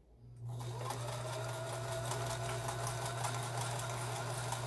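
Kenmore sewing machine starting up about half a second in and then running steadily, stitching a decorative pattern stitch, with a steady motor hum and fast, even needle ticking.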